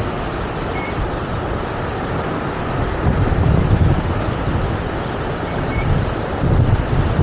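Steady roar of a waterfall, with low wind rumble on the microphone swelling a few seconds in and again near the end.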